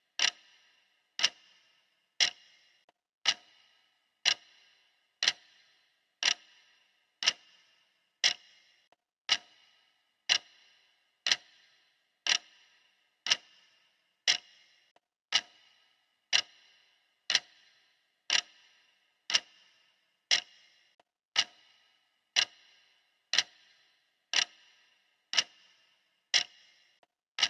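Clock ticking steadily, one sharp tick a second, each with a brief bright ring.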